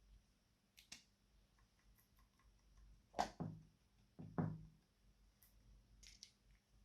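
Slime being handled: two short, soft squelches about a second apart, with faint small clicks and pops around them.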